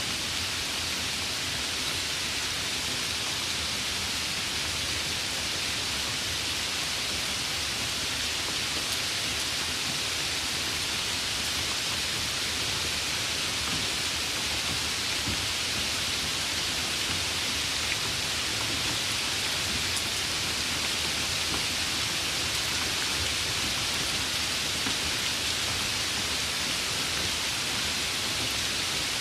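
Steady rain falling, an even unbroken hiss with no separate drops or thunderclaps standing out.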